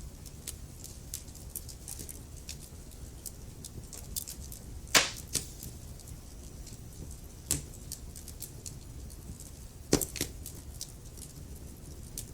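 Wood fire crackling: a steady scatter of small ticks and snaps over a low rumble of flame. Three louder pops stand out, about five, seven and a half, and ten seconds in.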